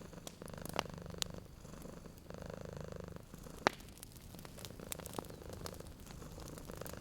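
Domestic cat purring steadily, a low rumble that swells and fades with each breath, over a wood fire crackling with scattered sharp pops, the loudest a little past halfway.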